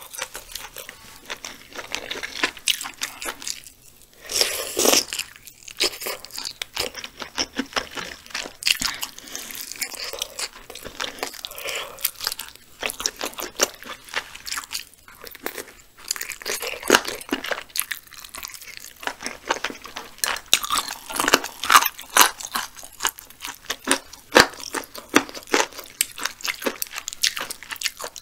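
Close-miked chewing and biting of mouthfuls of spicy braised chicken stew with beef intestines: a steady run of wet smacks and crunchy clicks, with a louder mouthful about four and a half seconds in.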